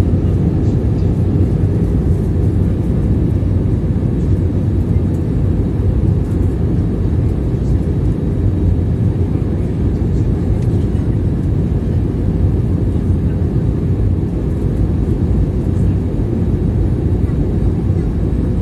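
Steady low rumble of cabin noise inside an Airbus A320 on approach to land: engine and airflow noise, even throughout.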